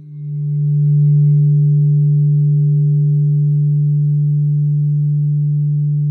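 Crystal singing bowl held in a steady, pure low hum, with fainter higher tones sounding above it. The sound dips at the start and swells back up within about a second, then holds steady.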